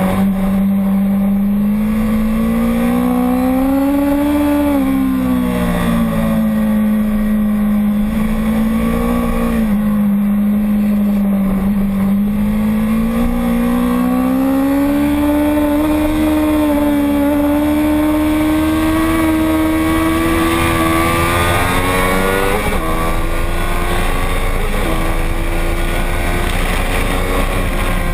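Racing motorcycle engine running hard through a lap, one continuous note whose pitch rises and falls with the throttle, then climbs steadily over a long stretch, with two brief dips near the end.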